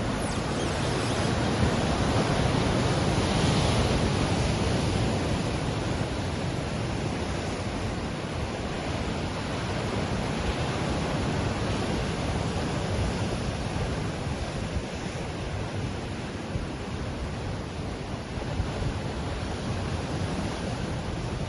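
Ocean waves washing on a shore: a steady wash of surf, swelling a little a few seconds in and then easing back.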